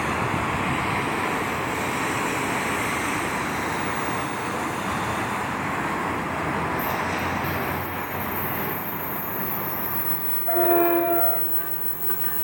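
Train running past with a steady rumble and rush of noise, then near the end one short train horn blast lasting about a second.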